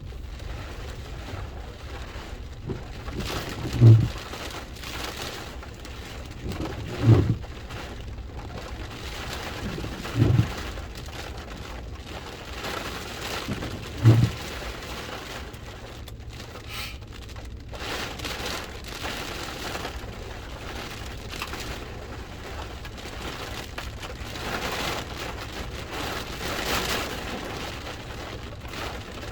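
Hurricane rain falling steadily. Four short, loud low thumps come about every three to four seconds in the first half.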